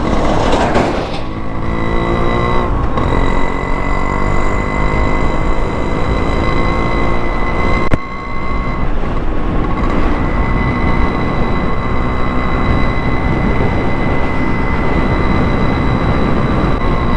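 Yamaha RX100's two-stroke single-cylinder engine, fitted with an expansion-chamber exhaust, running under way as the bike is ridden. Its pitch rises over the first few seconds, with a short dip about eight seconds in, all under a steady rushing noise.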